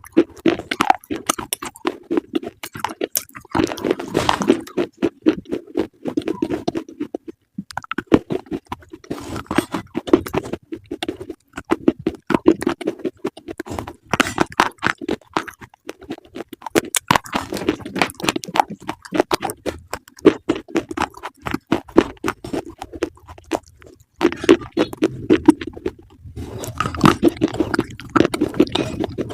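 Close-up crunchy chewing, rapid crisp crunches in runs of a few seconds separated by brief pauses.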